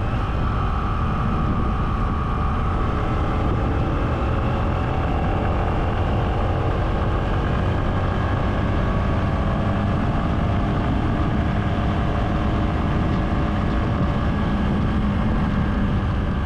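A vehicle under way: steady engine and road rumble, even in level, with faint engine tones drifting slowly up and down in pitch.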